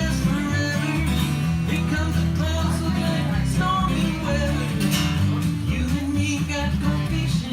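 Live guitar music: a plucked guitar tune over steady low notes.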